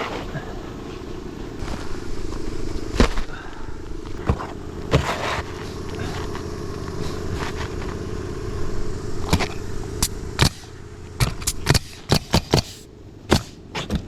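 Roofing nails being driven into asphalt shingles: a string of sharp shots, scattered at first, then a quick run of about eight near the end, over a steady low rumble.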